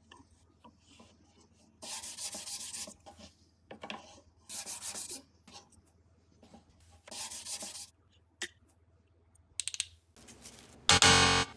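Three scraping strokes about a second long each, a few seconds apart, like sanding or rubbing a surface by hand. Just before the end comes a short, loud buzz.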